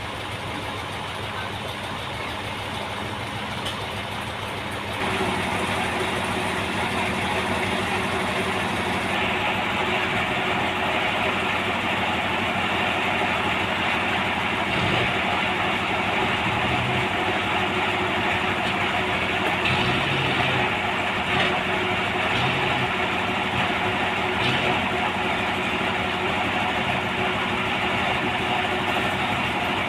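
Sawmill machinery running steadily, a step louder about five seconds in.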